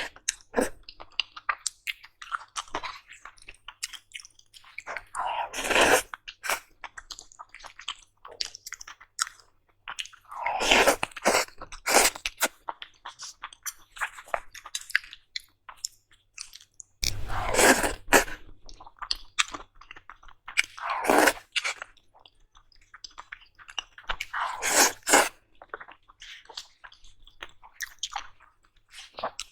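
Close-miked mukbang eating: a person chewing and biting food, with many small wet clicks and several louder crunching bursts every few seconds.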